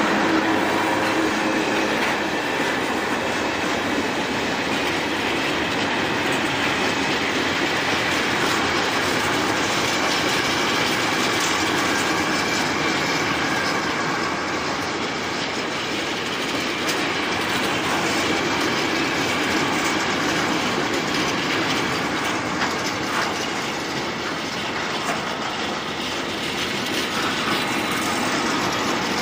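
Freight train of open wagons rolling past close by behind a PKP Cargo ET22 electric locomotive: a steady, loud rumble and clatter of steel wheels on the rails, with faint wheel squeal. The locomotive's hum fades in the first second or two as it moves away.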